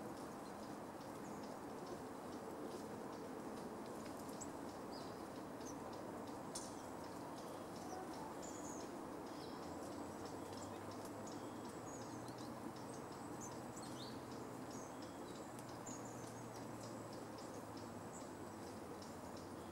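Scattered short, high bird chirps over a steady background hiss, joined about halfway through by a thin, steady high tone.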